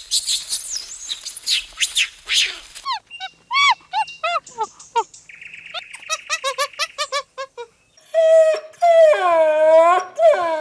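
Dogs yelping in short, arched cries, then drawing out into longer howls near the end, after a harsh, high, scratchy noise at the start.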